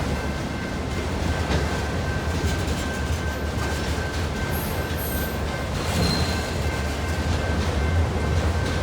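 Freight train running by, led by a Union Pacific diesel locomotive: a steady low rumble of engine and rolling cars, with a faint thin steady whine over it.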